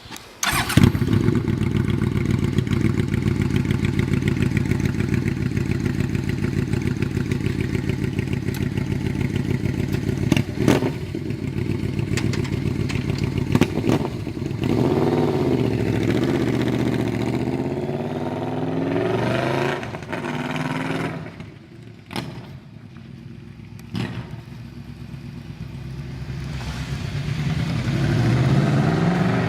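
Yamaha Royal Star Tour Deluxe V4 engine running through a Bomber aftermarket exhaust: it starts about a second in and idles steadily, is revved up and down several times around the middle, then drops to a quieter idle and rises again near the end.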